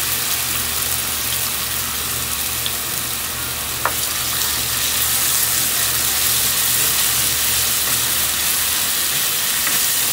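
Ginger-garlic paste and bay leaves sizzling steadily in hot oil in a nonstick pan while being stirred with a wooden spatula, with a single light tap of the spatula about four seconds in.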